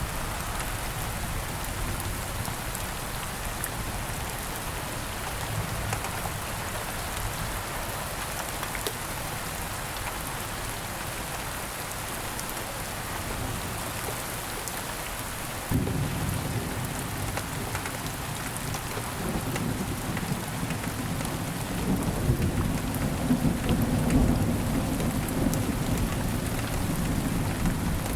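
Steady rain falling. About halfway through a low rumble of thunder sets in suddenly and swells, loudest a few seconds before the end.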